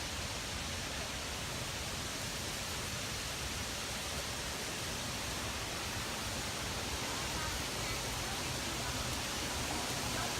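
Steady rushing hiss of water falling at a waterfall, unbroken and even.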